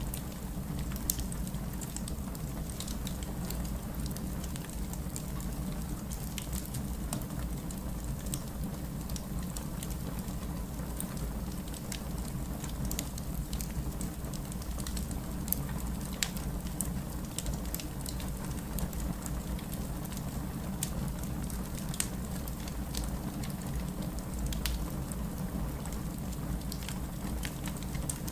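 Wood fire burning in a fireplace: a steady low rumble of flames with irregular crackles and pops, a few sharper ones standing out.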